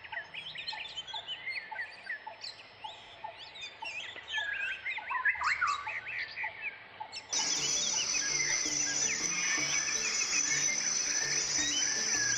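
Wild birds calling: many quick overlapping chirps and whistles. About seven seconds in, the sound cuts abruptly to a louder recording where more bird calls sit over a steady high-pitched whine.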